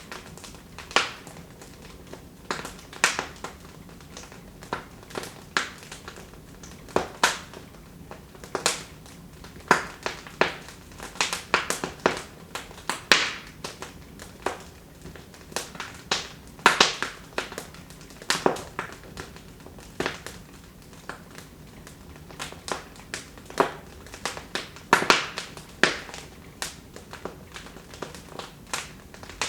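Wood fire in a fireplace crackling, with irregular sharp pops and snaps, several a second at the busiest, over a faint steady hiss.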